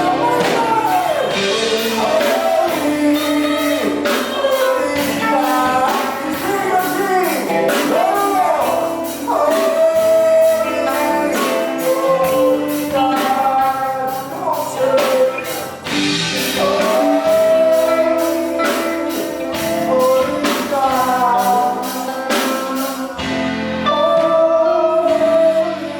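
Gospel music: voices singing over a band with a steady, even percussion beat.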